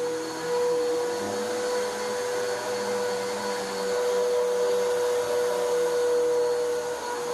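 Vacuum cleaner running steadily as it pre-vacuums carpet, a constant motor whine with its loudness rising and falling a little.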